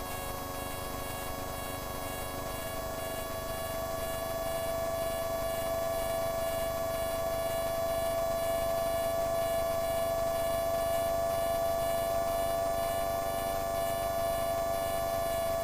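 Light aircraft in flight heard through the cockpit intercom feed: a steady droning whine from the engine with a fast, even pulsing beat. It grows a little louder about four seconds in.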